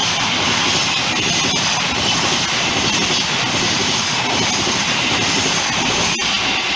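A passenger train, hauled by a diesel locomotive, passing close by at speed: a steady, loud noise of locomotive and wheels on the rails, with a single sharp click near the end.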